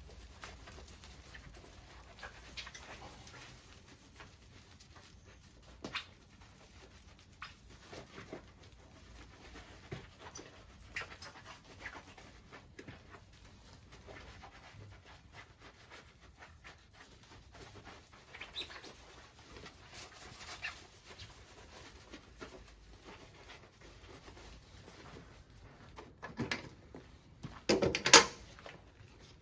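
A dog, with scattered light clicks throughout and a louder run of short sounds near the end.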